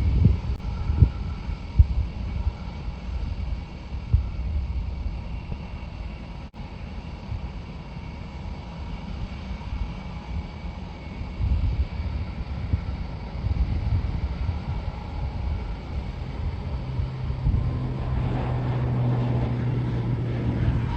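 Distant jet engines of a large military transport aircraft, a low rumble under wind buffeting the microphone. About three-quarters of the way in, a steady low hum and a rising engine noise join in and build toward the end.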